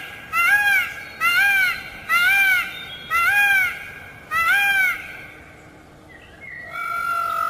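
A bird calling over and over: five arching calls about a second apart, then after a short pause a longer, flatter call near the end.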